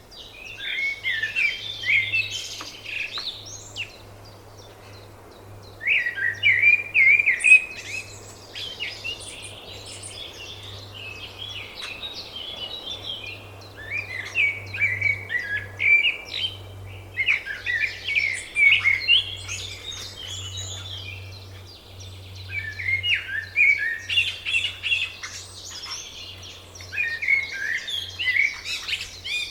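A songbird singing in repeated phrases of quick, varied notes, each phrase about three to four seconds long with short pauses between, over a faint steady low hum.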